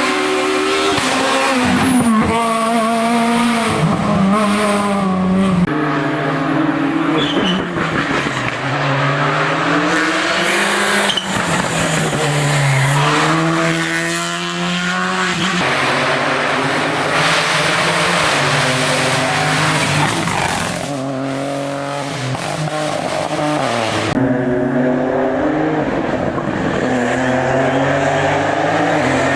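Rally car engine on a special stage, revving up and dropping back over and over as it accelerates, shifts gear and brakes for corners.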